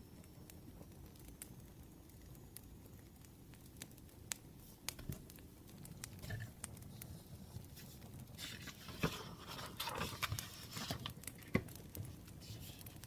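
Wood fire crackling with scattered small pops, and a few seconds of rustling from about eight to eleven seconds in.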